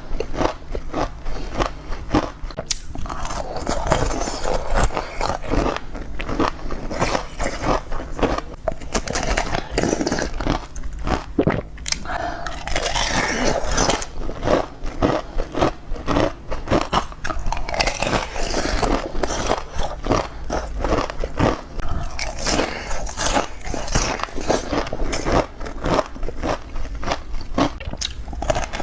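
Ice being bitten and crunched between the teeth close to the microphone: a rapid, continuous series of sharp crunches and crackles.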